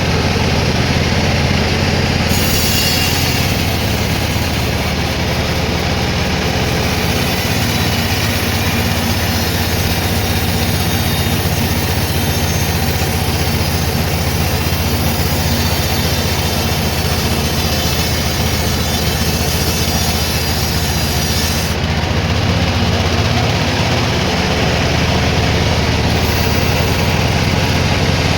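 Sawmill machinery running steadily, with a brighter hiss from about two seconds in to about twenty-two seconds as the saw cuts through a log.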